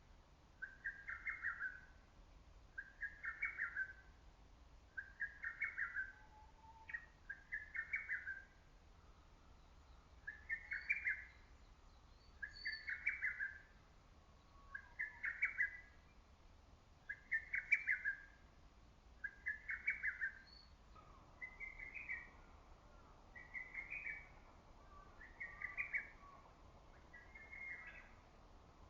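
Lesser cuckoo (hototogisu) singing: its loud, quick multi-note phrase repeated over and over, about once every two seconds. A few faint calls from other birds sound in the background.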